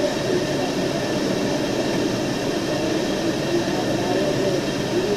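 Steady rushing noise, with faint wavering tones under it.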